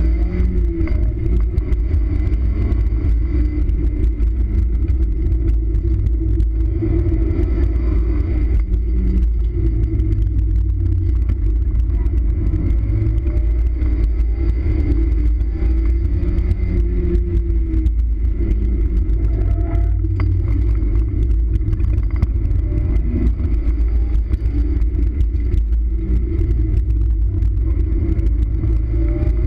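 Mazda Miata's 1.6-litre four-cylinder engine driven hard through an autocross course, its revs rising and falling again and again, over a heavy low rumble.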